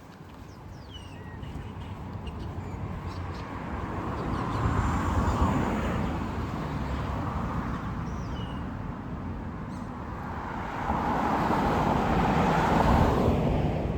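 Cars passing on a city street: two swells of tyre and engine noise, one about five seconds in and a louder one near the end. A few faint bird chirps sound over them.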